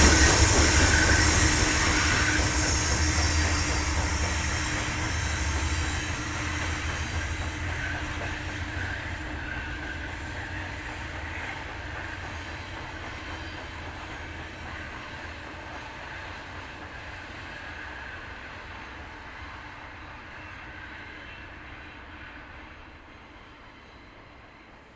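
Providence and Worcester freight train moving away along the track, its wheel-on-rail noise and rumble fading steadily. The high hiss dies out about a third of the way through, leaving only a faint distant rumble near the end.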